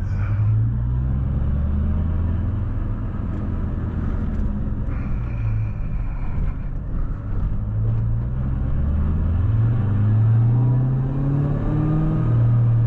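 Supercharged 4.6-litre V8 of a 2003 Mustang SVT Cobra driving, its engine note rising and falling with the throttle; the revs climb more than once in the second half.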